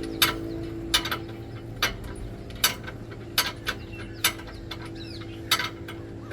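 Sharp metallic clinks and knocks at uneven intervals, roughly one a second, from tools working on metal, over a steady hum. Faint bird chirps come through now and then.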